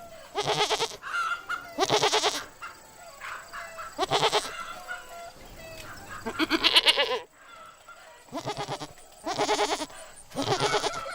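Goats bleating: about seven separate wavering calls, each about half a second long, spaced irregularly.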